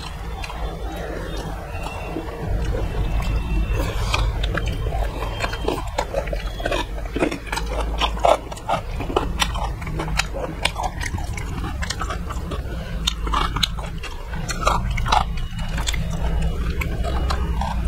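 Close-miked chewing and wet lip-smacking of two people eating by hand, with many small mouth clicks throughout over a steady low hum.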